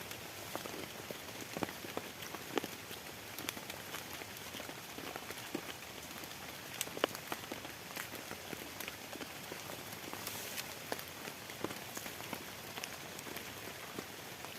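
Heavy rain falling: a steady hiss with many scattered sharp drops striking close by.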